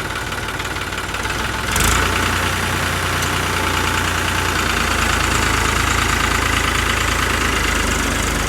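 New Holland 3630 tractor's three-cylinder diesel engine running steadily, with a single clunk about two seconds in, after which the engine runs a little louder.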